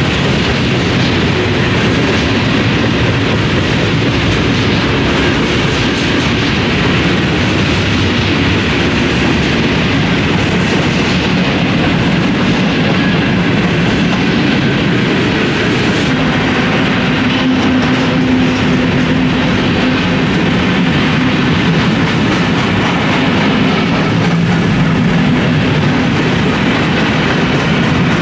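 Freight train's boxcars, flatcars and covered hoppers rolling past, a loud, steady rumble of steel wheels on rail with faint repeated clicks.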